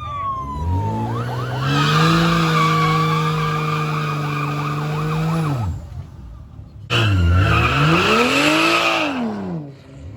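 A siren winds down in the first second. A car engine then revs up and holds at high revs with the tyres screeching for about four seconds, as in a burnout, and stops suddenly. About a second later a second loud burst of revving rises and falls, again with the tyres screeching.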